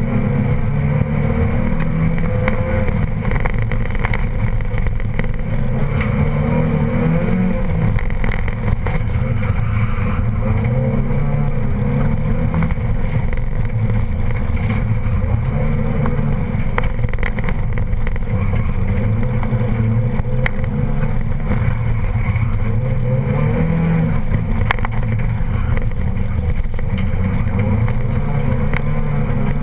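Car engine heard from inside the cabin on a hard competition run, repeatedly rising and falling in pitch as the driver accelerates and lifts off.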